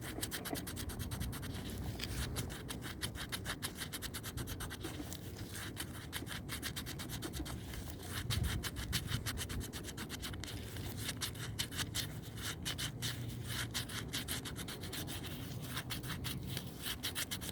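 Dirty rubber window seal from a Kia Optima door being scrubbed and wiped to clear out debris: a continuous run of quick rubbing and scratching strokes.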